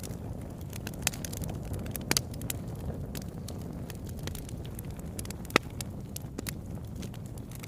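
Wood fire burning in a fireplace: a steady low rumble of flames with scattered sharp crackles and pops, the loudest pop about five and a half seconds in.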